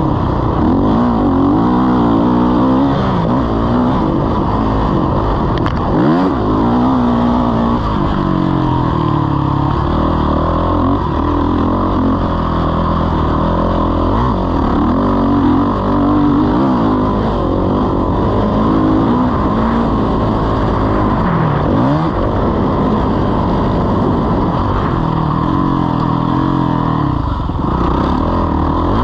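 Motocross bike engine running hard, revving up and falling back again and again, its pitch rising and dropping every few seconds.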